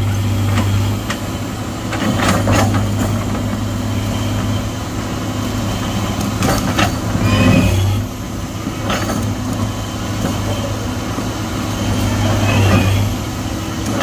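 Excavator's diesel engine running steadily under load, with several sharp knocks and scrapes of the bucket working against rock.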